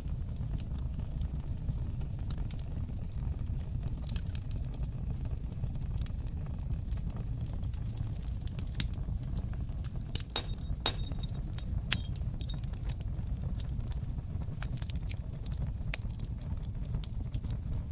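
Fire in a stone fireplace crackling: a steady low rumble of flames with scattered sharp pops and snaps. A small cluster of pops comes about ten seconds in, and the loudest single pop about twelve seconds in.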